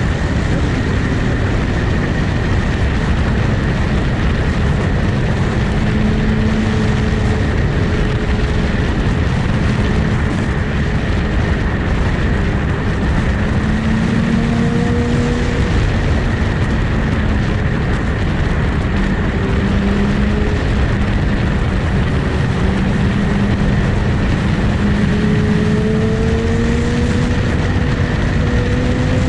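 Motorcycle engine running at a steady cruise, its pitch drifting gently up and down, under heavy wind rush on the microphone.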